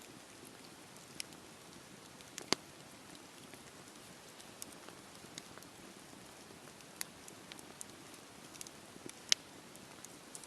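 Wood fire burning in a fireplace: scattered, irregular crackles and pops over a soft steady hiss, with two louder pops, one about two and a half seconds in and one near the end.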